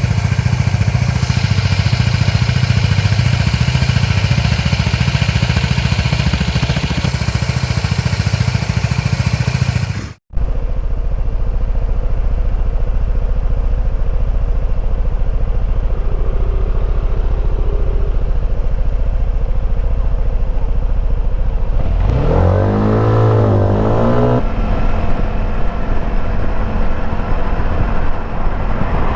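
Suzuki Burgman 200 scooter's single-cylinder four-stroke engine and exhaust running. The sound cuts out briefly about a third of the way in and returns as a lower, steadier rumble, with a short rise and fall in engine pitch later on.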